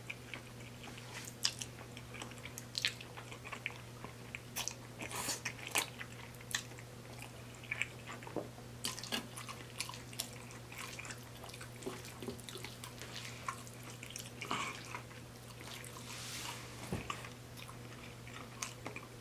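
Close-miked chewing of spaghetti, with irregular wet mouth clicks and smacks throughout. A faint steady low hum runs underneath.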